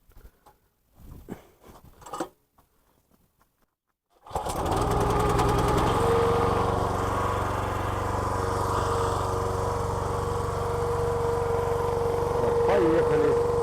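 A few light knocks and handling sounds, then about four seconds in the small petrol engine of a homemade hydraulic log splitter comes on abruptly and runs steadily. A steady high whine joins it about two seconds later.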